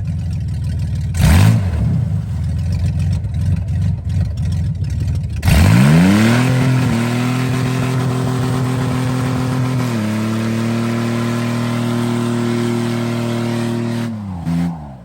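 Car engine idling with a quick rev, then revved hard and held at a steady high rpm for about eight seconds before dropping back.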